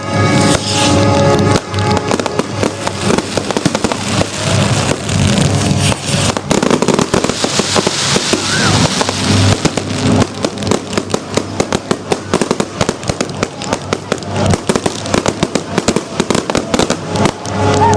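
Fireworks display: rapid, dense bangs and crackling bursts, with a stretch of hissing crackle around the middle, over music playing in the background.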